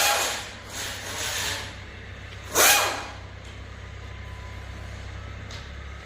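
An engine runs steadily with a low hum, broken by loud hissing bursts: one fading out at the start, a weaker one about a second in, and a short sharp one near three seconds in.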